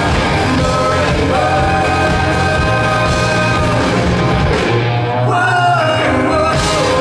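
Rock band playing live with a singer holding long sung notes over the music.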